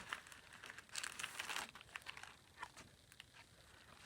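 Faint crinkling and rustling of a clear acetate bag and paper journaling cards being handled, busiest about a second in.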